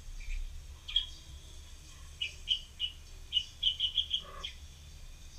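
A small bird chirping: short, high chirps, with a quick run of them in the middle.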